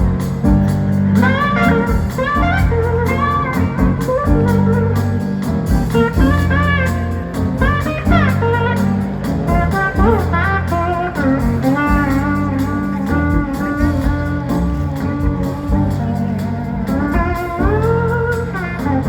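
Live blues-rock band playing an instrumental break: a lead electric guitar solo of bending, sliding notes over bass and drums.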